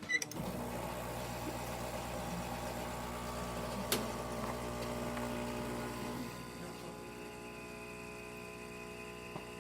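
Isomac E61 espresso machine's pump switching on and running steadily while a shot is pulled. It hums with a single sharp click about four seconds in, then gets a little quieter about six seconds in as a faint high whine joins.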